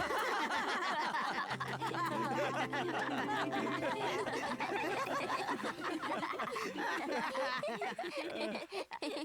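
Several voices laughing together at once, overlapping, dying away near the end.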